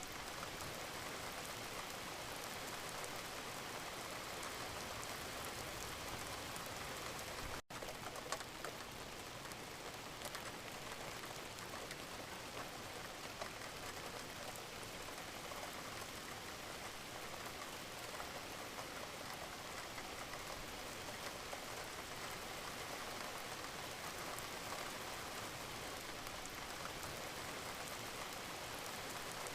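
Steady rain falling, a continuous hiss dotted with many small drop ticks. The sound cuts out for an instant about eight seconds in, then carries on unchanged.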